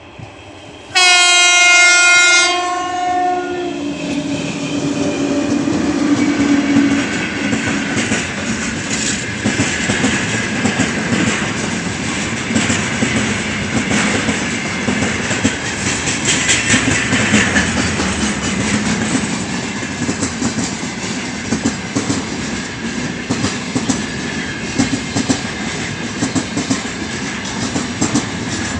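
2ES5K 'Ermak' electric freight locomotive sounds one loud horn blast of about a second and a half, about a second in, then it and its long, heavy freight train pass with a steady rail rumble and wheels clicking over the rail joints.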